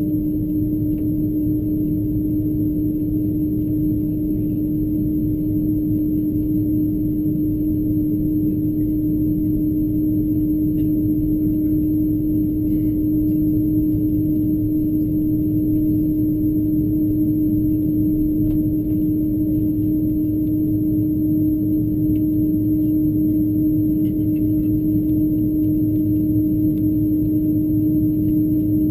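Steady low rumble with an unchanging droning hum inside the cabin of an Airbus A330-200 airliner taxiing with its engines at idle.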